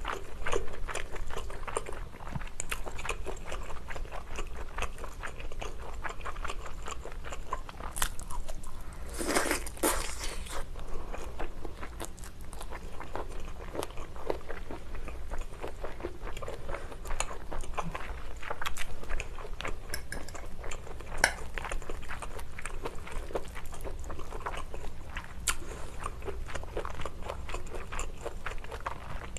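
Close-miked mukbang eating sounds: chewing and biting basil pesto pasta, glass noodles and abalone, with many small wet mouth clicks. About nine seconds in there is a louder rushing sound lasting about a second and a half.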